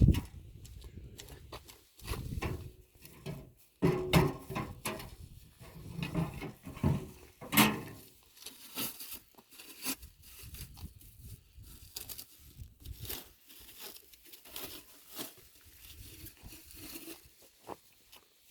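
Packaging rustling and crinkling with irregular knocks and clatters as the stove's chimney pipe sections are unpacked and handled; the loudest knocks come about four and seven and a half seconds in.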